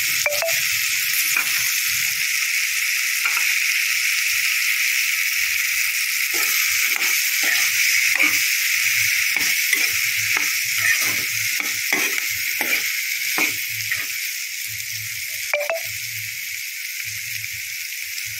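Carrots, peas and onion sizzling in oil in a kadhai as freshly added carrot slices are stirred in, the spatula scraping and tapping against the pan many times, most of all in the middle stretch. The sizzle eases a little near the end.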